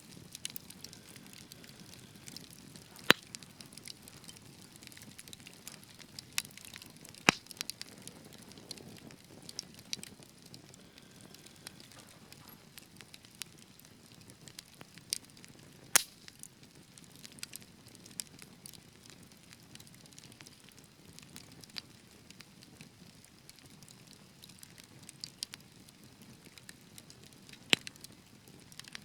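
Wood fire burning in a fireplace, a soft steady hiss with scattered sharp crackles and pops; the loudest pops come about 3, 7, 16 and 28 seconds in.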